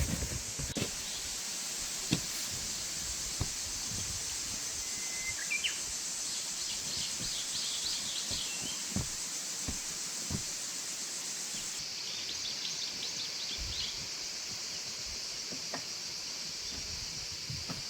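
Small birds chirping in short runs over a steady high hiss, with a few soft knocks scattered through. The hiss changes abruptly about two-thirds of the way in.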